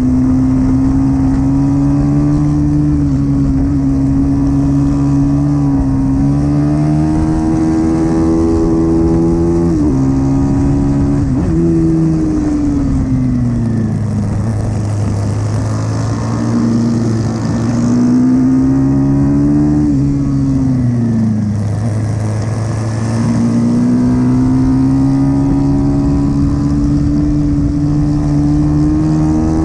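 Pit bike engines racing. The pitch climbs as the rider accelerates, then drops off into corners, over and over. A second, lower engine line runs alongside, shifting on its own.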